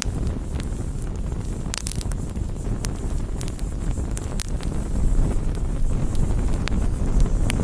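Campfire crackling: wood burning with sharp, irregular pops and snaps, a small cluster about two seconds in, over a steady low rumble.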